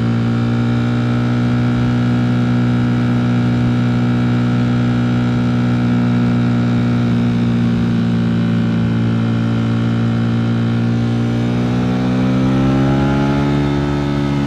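Ducati Streetfighter V4 S's V4 engine running at a steady pitch, its revs rising a little near the end.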